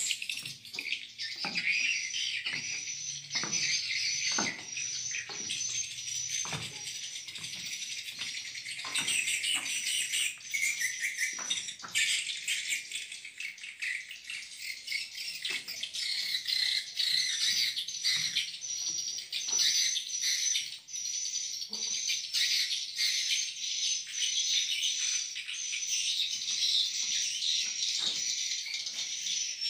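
Dense chirping of many swiftlets, with a short high chirp repeating about twice a second over a busy chatter of calls.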